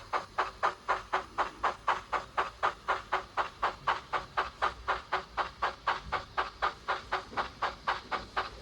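Steam locomotive exhaust chuffs from a DCC sound decoder's Baldwin steam sound file, played through the small upgraded speaker of an OO9 model Baldwin locomotive. The chuffs come steadily at about four a second, as the model runs at a constant speed.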